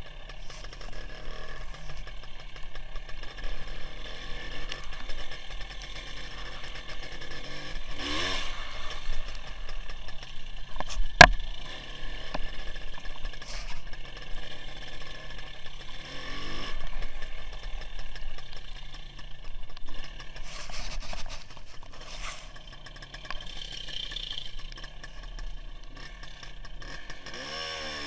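WSK 175 two-stroke single-cylinder motorcycle engine running under way, mixed with steady wind and road noise. Three whooshes sweep past about eight, sixteen and twenty-seven seconds in, and there is a single sharp knock about eleven seconds in.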